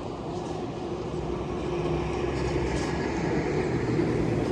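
A heavy road vehicle's engine running with a steady hum, growing gradually louder as it approaches.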